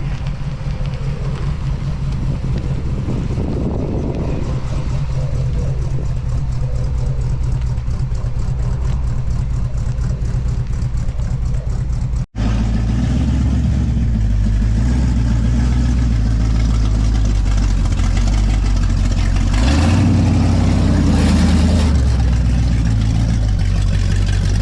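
Car engine running, heard in two takes joined by a sudden cut about halfway through. The second take is louder and swells briefly a few seconds before the end, as if revved.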